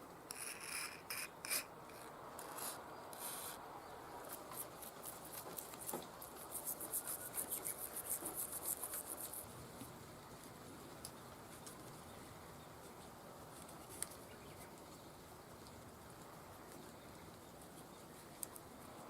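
Hand rubbing or scraping on a disassembled carburetor part. A few short scrapes come first, then a run of quick strokes at about four a second in the middle, and later two single light clicks.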